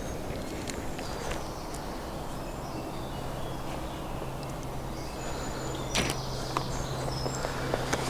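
Outdoor ambience: a low, even rumble with a steady low hum, faint bird chirps scattered through it, and a sharp click about six seconds in.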